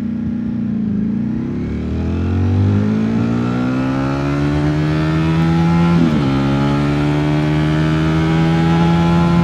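Ducati Streetfighter V4 S's V4 engine under way, pulling through the gears: the revs dip about a second in, climb steadily, then drop sharply at an upshift about six seconds in before climbing slowly again.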